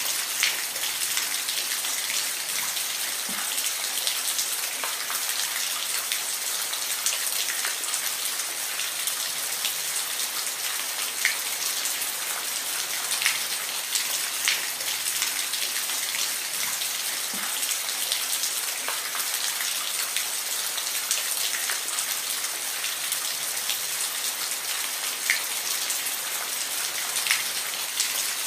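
Steady rain falling, an even hiss with scattered sharper drops and drips landing on a surface.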